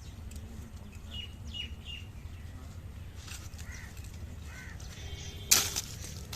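Small birds chirping: three short high chirps in quick succession about a second in and a couple of fainter calls later, over a steady low hum. A single sharp knock sounds near the end.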